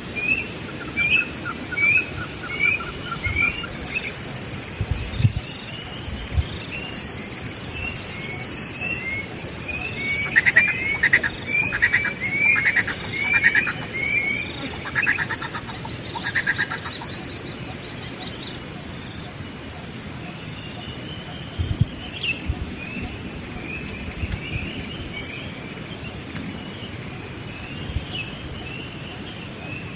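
Wild birds calling in series of short, repeated chirps, busiest in a dense run about ten to seventeen seconds in. Insects drone steadily at a high pitch underneath, with a few low bumps.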